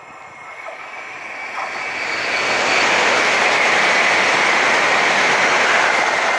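Renfe high-speed electric train passing close by at speed: a rushing noise of wheels and air that swells over the first two or three seconds, holds loud, and starts to fade right at the end.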